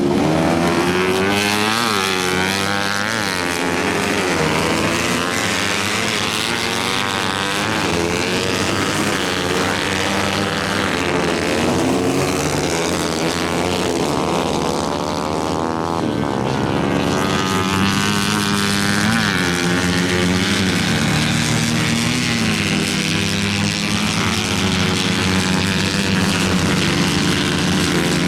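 Several 125 cc racing engines running hard, their overlapping pitches climbing and falling as they accelerate and back off.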